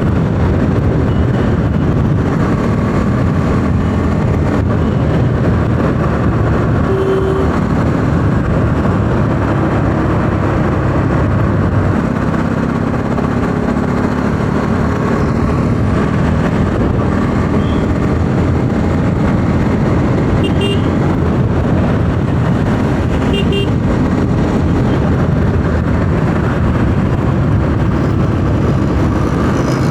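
Bajaj Pulsar 200 NS single-cylinder engine running steadily at highway speed under heavy wind rush on the rider's microphone. A few short horn beeps sound in the second half.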